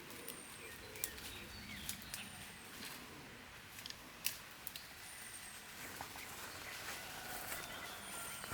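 Wild birds calling faintly: a few short, very high whistles that fall in pitch, and some brief chirps. Scattered sharp clicks and crackles come through, the loudest about four seconds in.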